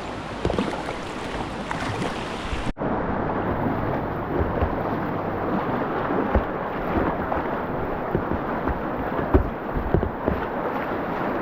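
Whitewater rapids rushing around a kayak: a dense, steady wash of river noise with scattered low thumps and knocks, and a brief dropout about a quarter of the way in.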